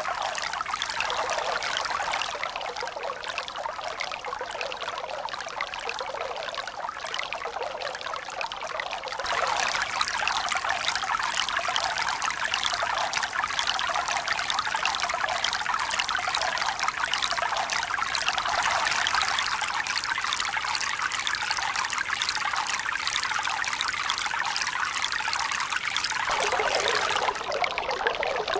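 Steady running water, splashing and trickling continuously without the slow rise and fall of breaking waves. It gets suddenly louder and brighter about a third of the way in and changes again near the end.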